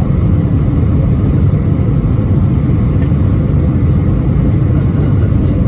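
Steady low rumble of an Airbus A320-231's IAE V2500 engines and airflow, heard from inside the passenger cabin.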